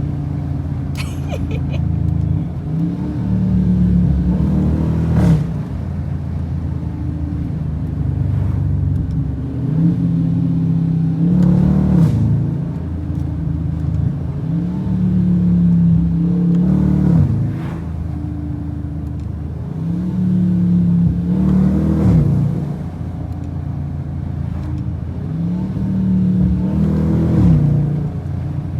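Car V8 engine accelerating hard and easing off again and again, its pitch climbing and then falling every five or six seconds.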